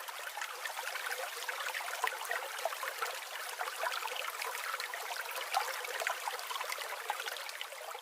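Running water trickling and babbling, like a small stream, fading out near the end.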